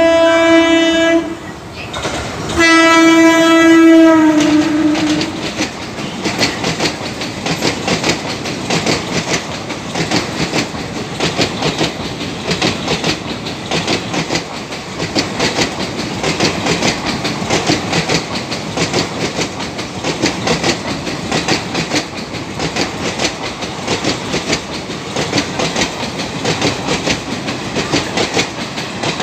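Horn of a WAP-4 electric locomotive, two blasts: a short one, then a longer one that drops in pitch at its end as the locomotive passes. Then the train rushes by at speed with a fast clickety-clack of wheels over rail joints.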